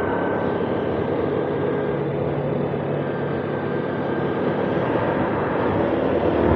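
Honda CBF190X's single-cylinder engine running steadily at riding speed, with road and wind noise on the on-board microphone, growing slightly louder near the end.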